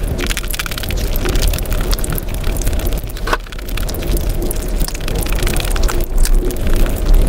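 Close-miked chewing and lip-smacking of a person eating chicken biryani by hand, sped up so the wet mouth clicks run together into a dense, fast crackle. A low steady hum lies underneath.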